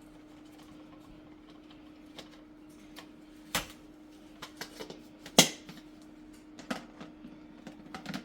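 Plastic parts of a stick vacuum's dust canister being handled and pulled apart: scattered clicks and knocks, the loudest about three and a half and five and a half seconds in, over a faint steady hum.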